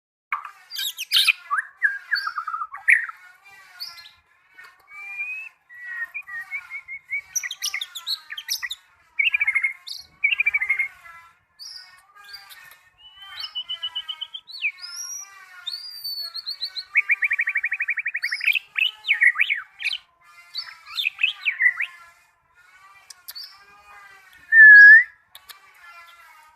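A songbird singing a long, varied song of chirps, whistled slurs and rapid trills, with a buzzy trill about two-thirds of the way through and a loud, clear whistled note near the end.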